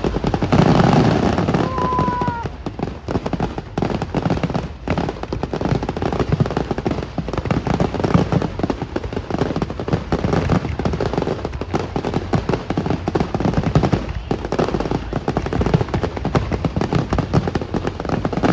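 Fireworks display: a rapid, continuous run of bangs and crackles, with a brief whistle about two seconds in.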